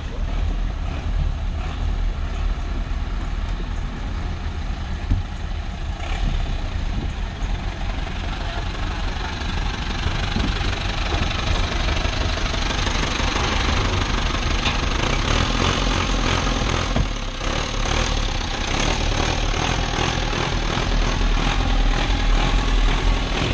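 An engine running steadily with a low rumble, under a rushing hiss that grows louder about ten seconds in.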